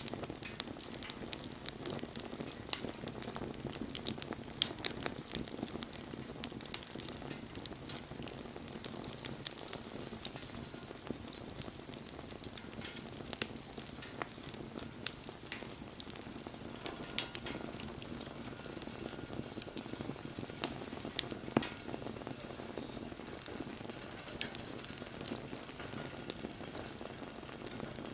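Wood bonfire crackling: frequent sharp snaps and pops over a low, steady rush of burning.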